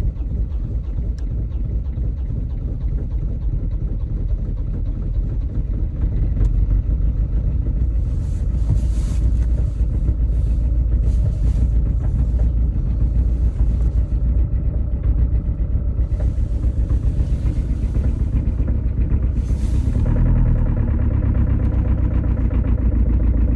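Land Rover Freelander 2 engine running steadily just after a cold start at −25 °C. About twenty seconds in, its note changes and grows a little louder and brighter.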